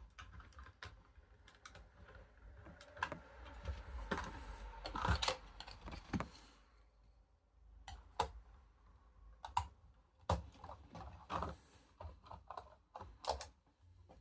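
Irregular light plastic clicks and taps of a Lego model being handled, with a stretch of denser rustling and clattering between about three and six and a half seconds in.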